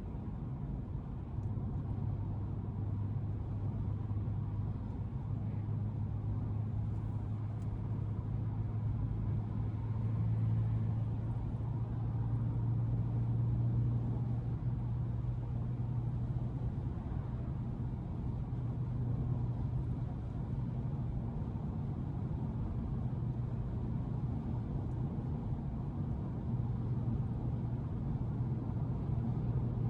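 2012 Audi S5's supercharged 3.0-litre V6 droning at a steady cruise, with tyre and road noise; the engine note rises slightly about ten seconds in and then holds.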